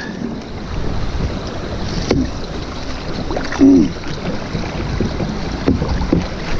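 Wind buffeting a microphone on a kayak, an uneven low rumble, with a few light knocks and a short voice-like grunt about three and a half seconds in.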